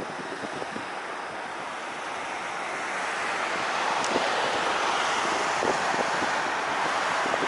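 Jet airliner on landing approach, its engine noise growing steadily louder for a few seconds and then holding, with wind buffeting the microphone.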